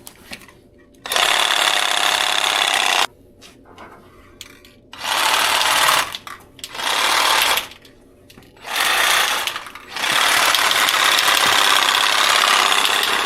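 Aerosol spray can of clear coat spraying in bursts: a two-second spray, three shorter ones about a second each, then a long steady spray near the end.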